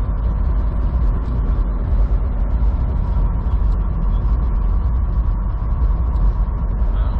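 Inside the cab of a semi truck on the move: a steady diesel engine drone with road noise, most of it low down, and a faint steady whine.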